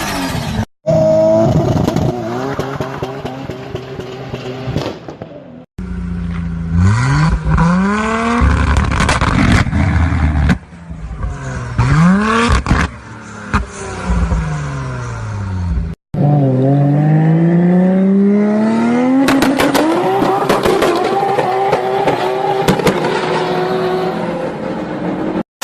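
Turbocharged car engines revving hard in several short clips cut together, the pitch sweeping up and falling back with each rev. Sharp cracks and bangs from the exhaust come in clusters, typical of anti-lag systems firing.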